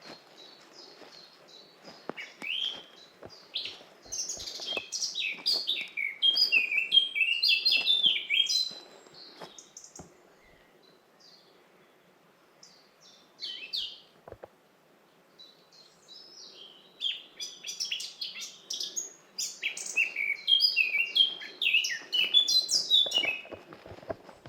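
Songbird singing: two long runs of rapid, high, varied notes, the first starting about four seconds in and the second about seventeen seconds in, with a quieter lull and a few single calls between.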